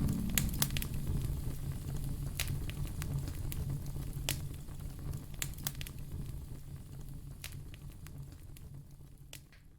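Wood fire crackling, with scattered sharp pops over a low steady rumble, slowly fading out toward the end.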